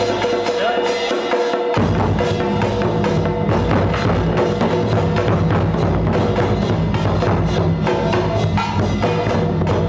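Music led by fast, dense percussion of wood-block knocks and drums over steady held tones. The bass drops out for about the first second and a half, then comes back in.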